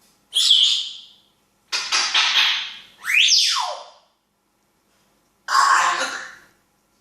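African grey parrot calling in four separate bursts: a short high squeak, a harsh noisy call, a whistle that swoops up and then falls steeply, and, after a pause, another harsh call.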